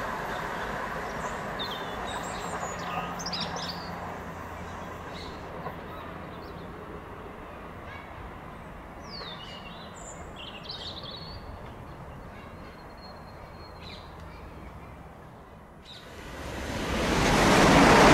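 A passing electric train's rumble fades away while small birds chirp over it. About 16 seconds in, the next electric multiple-unit train's noise swells quickly and is loud by the end as it approaches through the station.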